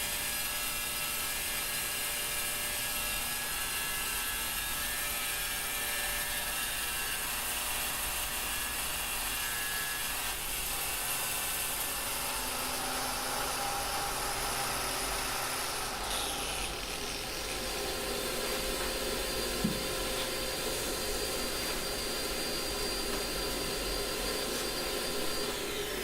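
Power tool motor running steadily with a whine, its tone shifting about two-thirds of the way through.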